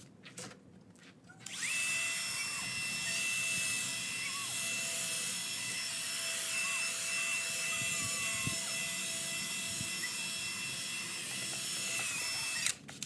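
Drill running at full speed with a 1500-grit sanding pad, wet-sanding a plastic headlight lens with soapy water. It starts about a second and a half in, runs steadily with a high whine, and stops briefly just before the end.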